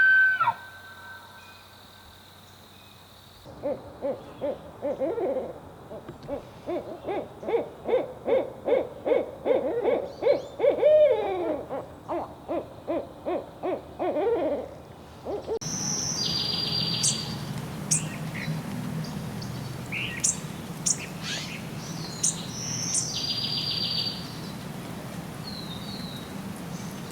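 An owl hooting in a long, rapid series of calls, some gliding down in pitch. About sixteen seconds in it cuts to small birds chirping over a steady low hum.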